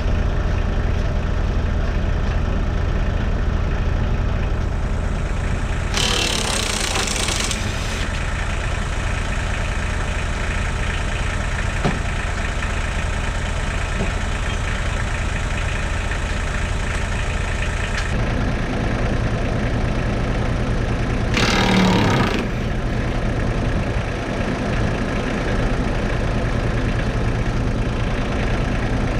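Kubota KX91-2 mini excavator's diesel engine running steadily, its note changing about 18 seconds in. There are two short bursts of hiss, one about 6 seconds in and one about 22 seconds in.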